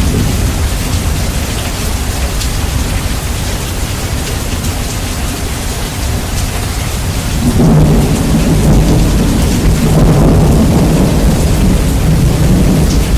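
Heavy rain with thunder, heavily bass-boosted and loud. A rumble of thunder swells up about halfway through and keeps rolling to the end.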